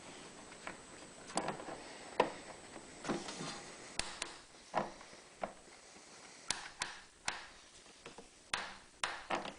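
About a dozen irregular clicks, taps and light knocks as small plastic and metal generator parts are handled and fitted into place during reassembly.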